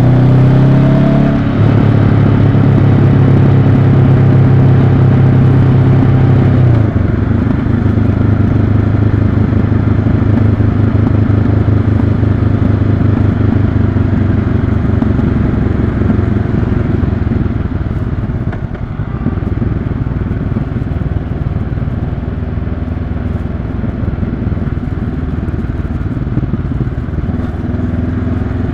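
Honda CB500X's parallel-twin engine running on the road. Its note steps down about a second and a half in, then drops lower and quieter about seven seconds in, with a brief further dip near the twenty-second mark.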